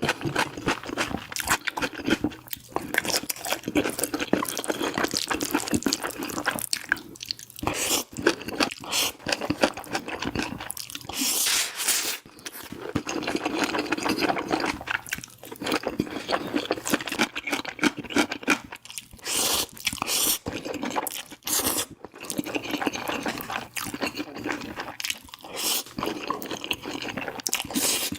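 Close-miked eating: crunchy bites and wet chewing, a run of quick crisp clicks with short pauses between mouthfuls.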